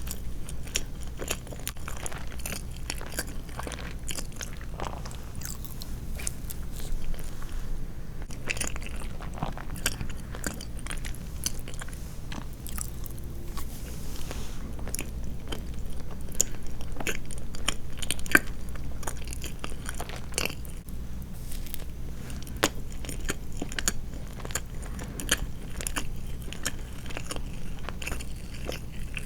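Close-miked chewing of soft sweets: a continuous run of small mouth clicks and smacks.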